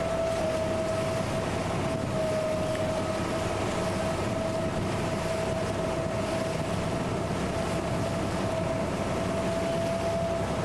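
Boat engine running steadily, a constant drone with a steady whining tone over it.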